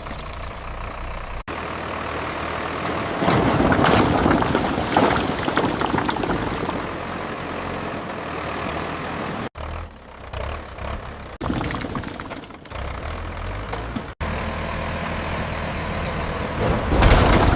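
Tractor engines running in several short stretches with abrupt breaks between them, and a louder low rumble starting near the end.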